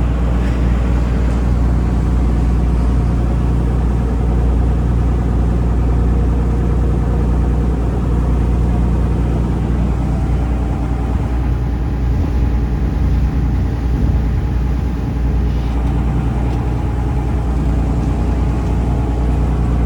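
Taxi boat's engine running steadily under way, a loud, even low drone.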